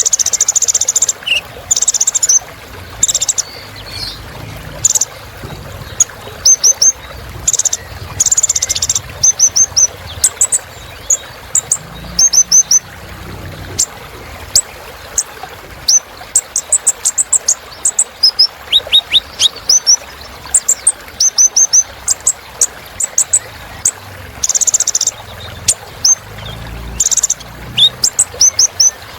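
Sunbird known to Indonesian bird-keepers as kolibri ninja singing a long varied song: quick high, thin chirps, sharp downward-sweeping notes and short buzzy trills, delivered in rapid bursts with brief pauses between phrases.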